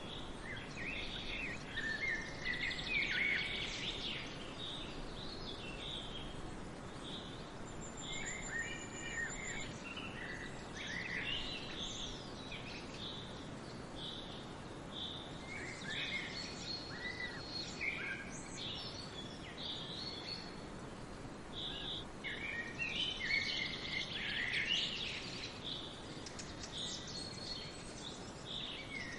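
Several birds chirping and singing in short, overlapping phrases, in busy spells with brief lulls between them, over a steady background hiss.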